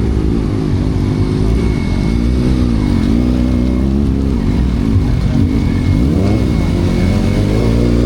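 A car engine revving up and down again and again, loud and without a break.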